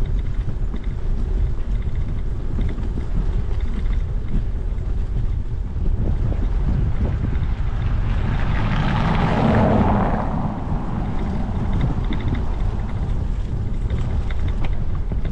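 Wind buffeting the microphone on a moving bicycle, with a steady low rumble. A little past the middle, a vehicle passes: its tyre noise swells over a couple of seconds and fades away.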